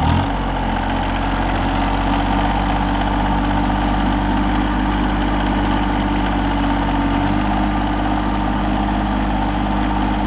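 Rural King RK24 compact tractor's diesel engine running steadily at working speed, with a slight change in tone at the start.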